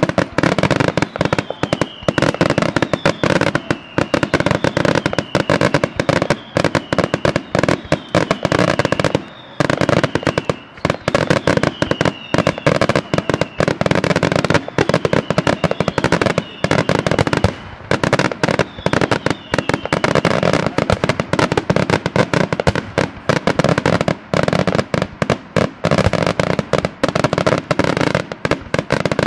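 Daytime fireworks: aerial shells bursting into clusters of many small bangs, a fast, unbroken barrage of reports with short falling whistles mixed in through much of it.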